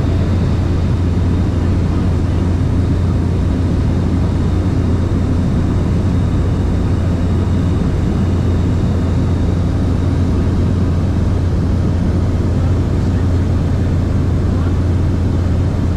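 Light aircraft in cruise heard from inside the cabin: a steady engine and propeller drone with a strong low hum and a wash of air noise over it.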